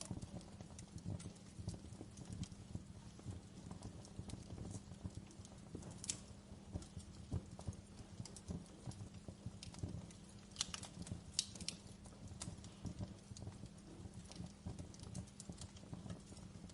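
Wood fire in a fireplace crackling, with many small irregular snaps and a few sharper pops, the loudest about six and eleven seconds in.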